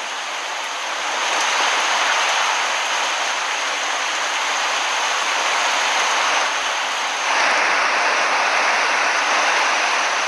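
Heavy rain, a dense steady hiss that builds after the first second and grows heavier about seven seconds in.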